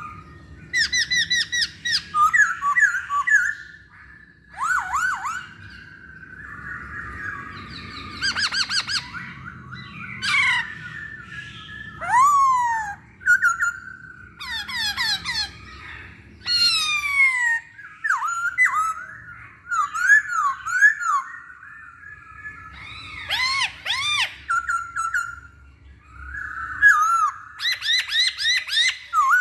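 Poksay Hongkong laughingthrush singing a loud, varied song: strings of quickly repeated whistled notes, rapid trills and sweeping glides, some falling and some rising, with harsher chattering notes between phrases.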